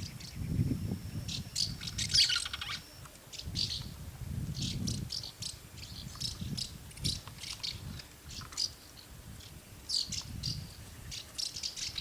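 Swallows twittering: a busy run of short, high chirps, loudest about two seconds in, with low rumbling on and off underneath.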